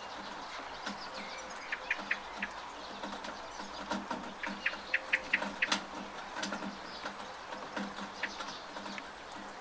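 Steady rain with water dripping and splashing off a gutter, and small birds chirping in short runs of quick notes, about two seconds in and again around five seconds.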